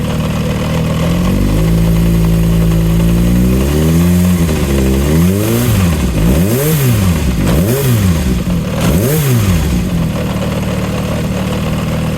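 Yamaha XJR400's air-cooled inline-four engine idling, raised to a held higher speed about a second in, then revved up and down with three quick blips before settling back to idle. The engine is listed as having an abnormal noise from its bottom end (crankcase).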